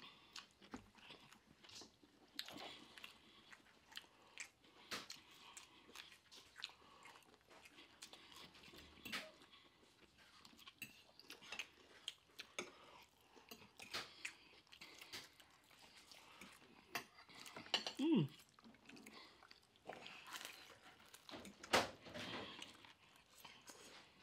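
Close-up mouth sounds of eating fried catfish and spaghetti: repeated crunchy bites and chewing, with occasional light clinks of a fork. A short falling hum-like "mm" comes about eighteen seconds in.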